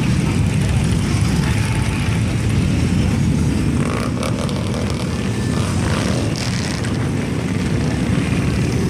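Many Harley-Davidson motorcycles' V-twin engines running together in a parade, a loud steady low drone with no single bike standing out.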